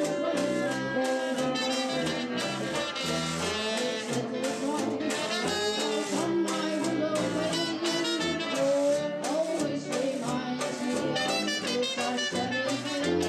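Jazz band with saxophones and brass playing a blues-inflected tune, held notes over a steady beat.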